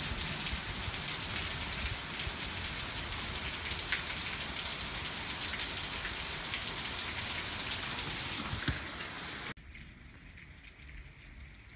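Rain falling steadily, a dense hiss with scattered ticks of individual drops. About nine and a half seconds in it cuts off abruptly to a much quieter patter of raindrops.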